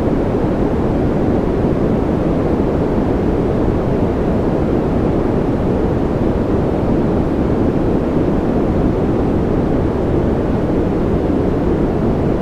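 Steady, unchanging noise from a sleep white-noise track, deep in tone, with most of its weight low and little hiss on top.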